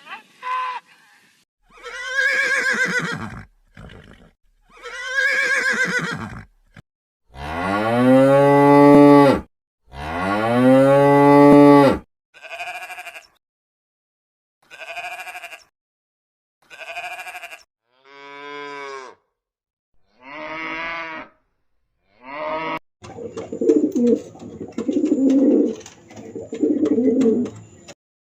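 A series of separate farm-animal calls with short pauses between them, loudest two long, low calls about 7 and 10 seconds in; the last five seconds hold a choppier, rattling call.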